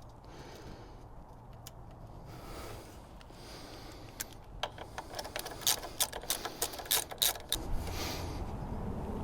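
Metal clicks and clinks of hand tools and bolts as a motorbike side stand is refitted and its nut done up: quiet fiddling at first, then a quick irregular run of sharp clicks about halfway through.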